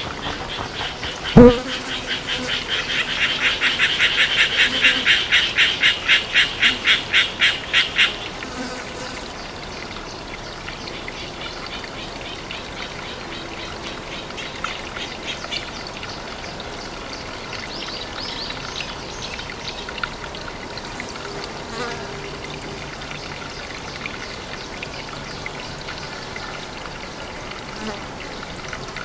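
A sharp thud about a second in, then a loud, rhythmic pulsed call of an animal at the pond. It repeats several times a second, swells, and stops abruptly about 8 seconds in. After it a faint, steady chorus of calling animals continues.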